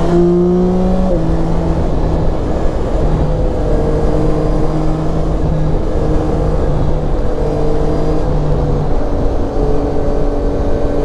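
Yamaha Tracer 9's 890 cc inline-three engine running on the road. About a second in, its pitch steps down, as on a gear change or throttle lift, and it then holds a fairly steady note.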